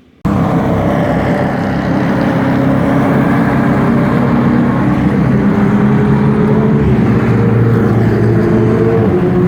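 A car engine running steadily while driving, starting abruptly a moment in with its pitch staying nearly level.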